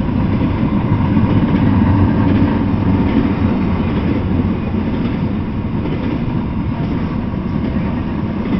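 Double-stack intermodal freight train rolling past, with steady noise of steel wheels on the rails.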